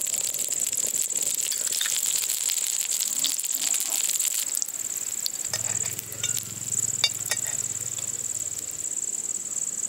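Ghee sizzling and crackling around paniyaram frying in a paniyaram pan, loudest in the first half, with a few sharp clinks of a utensil about seven seconds in. A steady high chirring of insects runs throughout, and a low hum comes in for a few seconds in the second half.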